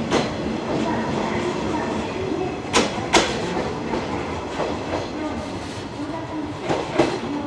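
Electric multiple-unit train (Okayama depot set A16) pulling out of the station and gathering speed, with a steady running noise. Its wheels click sharply over rail joints twice about three seconds in, and once more near the end.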